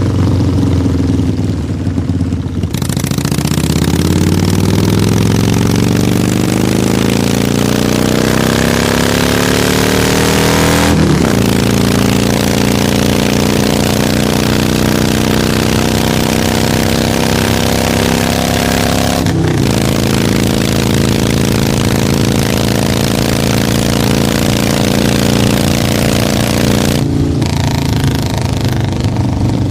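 Harley-Davidson motorcycle engine idling, then pulling away and accelerating, its pitch climbing through the gears with shifts about eleven and nineteen seconds in, holding a steady cruise, and dropping back to a low idle-like pitch near the end.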